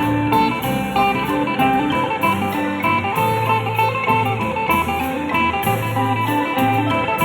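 Isan pong lang folk ensemble playing live: a quick plucked-string melody of short notes over a repeating bass line.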